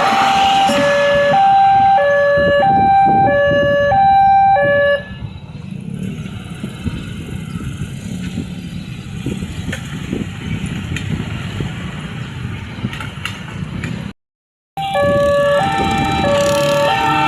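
Railway level-crossing warning alarm sounding a two-tone alternating chime, low and high notes swapping about every half second. It stops about five seconds in, leaving background traffic noise, and after a brief cut it is sounding again near the end: a train is approaching the crossing.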